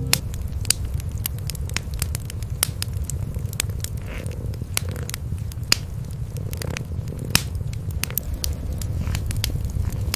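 Wood fire crackling in a fireplace, with irregular sharp pops, over the continuous low rumble of cats purring.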